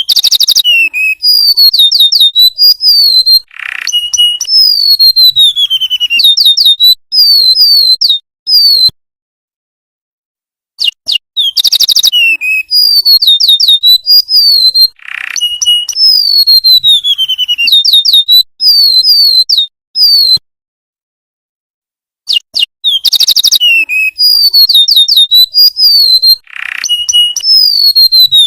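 Golden-bellied gerygone (remetuk laut) singing: high, thin falling whistles mixed with quick chirping trills. The song comes in phrases of about nine seconds that stop dead for about two seconds and then start again the same way, three times over, as a repeating loop.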